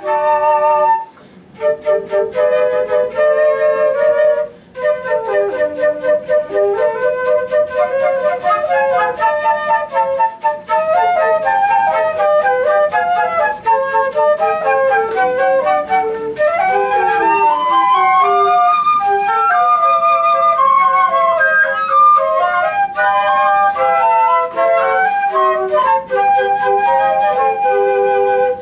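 Flutes playing a piece in several parts at once, with lively runs of notes. The playing breaks off briefly about a second in and again near five seconds, then runs on without a break.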